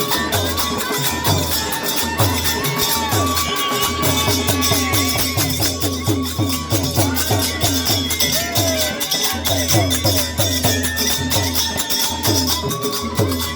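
Rajasthani folk music led by an algoza (paired bamboo flute), playing a melody with held notes and slides over a steady drone, with a low drum beat of about three strikes a second underneath.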